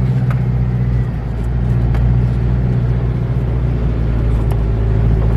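4WD engine labouring at low revs while driving through soft beach sand, its note dipping briefly about a second in; the vehicle is bogging down because it is going too slow in the sand.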